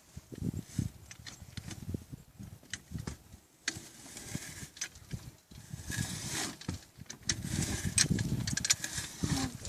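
Irregular scraping and knocking of tools working ash out of an outdoor wood furnace.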